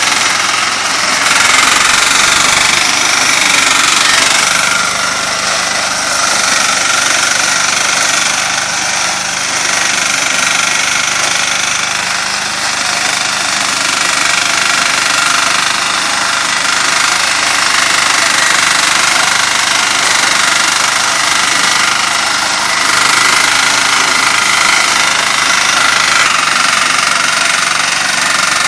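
Engine-driven multipurpose corn-harvesting machine running steadily at a constant loud level.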